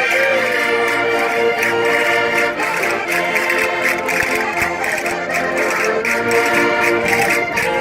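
Concertinas (Minho diatonic button accordions) playing a lively traditional folk dance tune with a steady rhythmic pulse.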